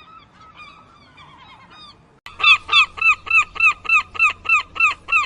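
Seagull calling: faint, gliding mewing calls for about two seconds, then suddenly a loud, fast series of repeated arched calls, about three or four a second.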